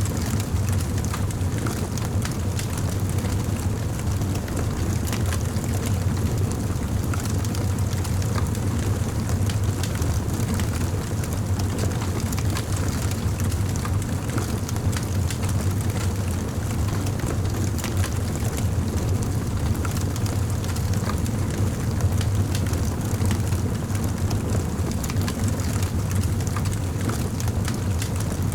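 Campfire burning: a steady low rumble with many small crackles and pops scattered through it.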